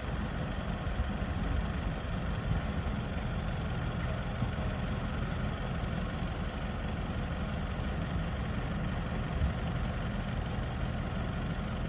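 Vehicle engine idling steadily, a low rumble.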